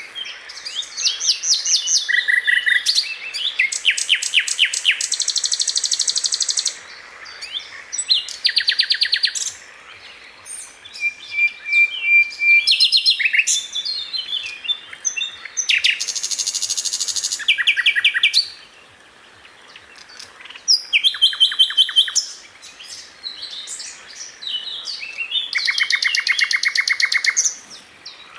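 Sikatan londo flycatcher singing a series of fast, rapid-fire trilled phrases, each lasting a second or two, with short pauses between them.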